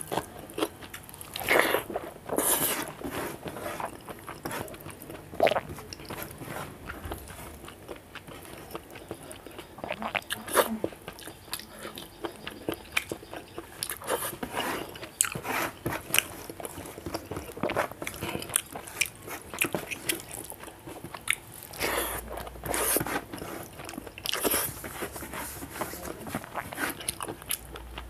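Close-up mukbang eating sounds from a man eating rice and curry by hand: steady chewing, with irregular wet smacks and crunching bites.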